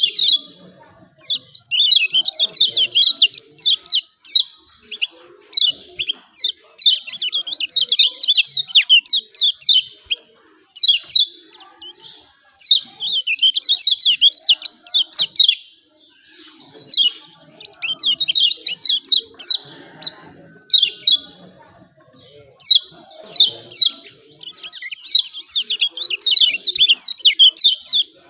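Kecial kuning (Lombok white-eye) giving its 'ciak ciak' call: loud bursts of rapid, high chirps, in phrases of one to three seconds with short pauses between. The recording is a lure meant to provoke a lazy caged white-eye into singing.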